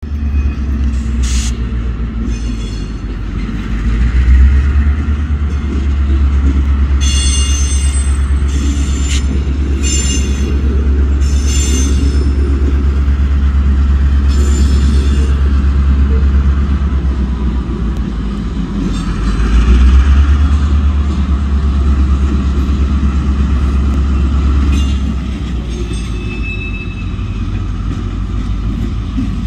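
Florida East Coast freight train, a diesel locomotive hauling double-stack container cars, rolling past with a steady low rumble that swells about four and twenty seconds in. Between about seven and twelve seconds in come several short high-pitched wheel squeals.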